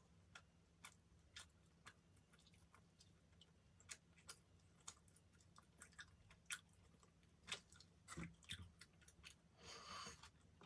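Quiet, close-up chewing of a soft dessert, with many faint wet mouth clicks and a brief soft rush of noise near the end.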